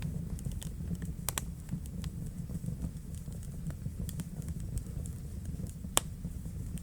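Wood fire crackling in a fireplace: small irregular pops and snaps over a low steady rumble of the flames, with one sharper crack about six seconds in.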